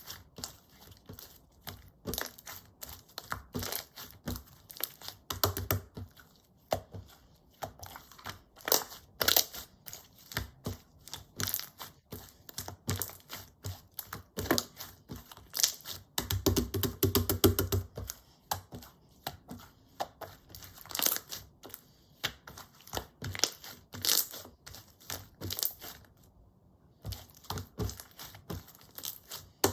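Clear slime being squished and stretched by hand, giving irregular sticky clicks and small pops, with a quick dense run of clicks a little past halfway.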